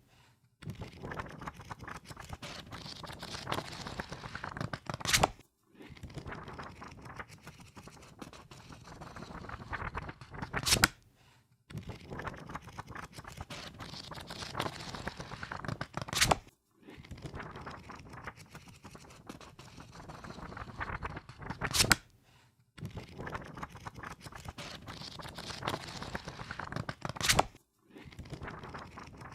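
Pages of a book being riffled through with the thumb, a rapid fluttering of paper that ends in a sharp snap. This repeats five times, about every five and a half seconds, with a brief pause between runs.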